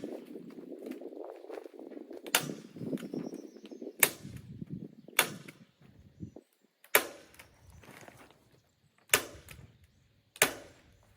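Staple gun firing six times, a sharp snap every one to two seconds as plastic sheeting is stapled to a wooden frame. Rustling of the plastic runs under the first few shots.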